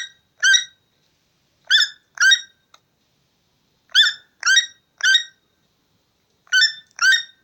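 Toucan calling: short repeated calls given in quick groups of two or three, with pauses of over a second between the groups.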